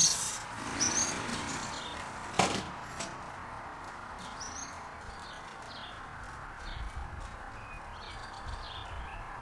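Swallows chirping in alarm while defending their nest, the calls loudest in the first second and then fainter and scattered. A sharp knock comes about two and a half seconds in, with a lighter one just after.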